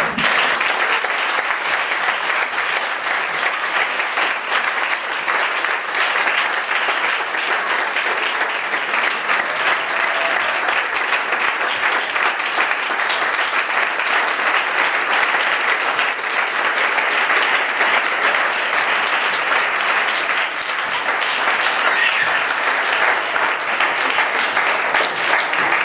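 A congregation applauding steadily, many hands clapping at once with no break.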